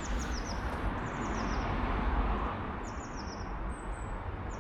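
A small bird chirping in short runs of about four quick falling notes, repeated every second or two, over a steady low rumble.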